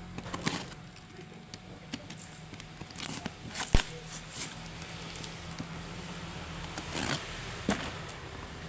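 Handling of a package being unboxed: scattered clicks and crackling, with one sharp knock a little under four seconds in.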